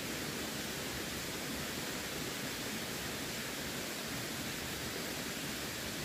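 Steady rush of running water: an even hiss with no separate splashes or changes.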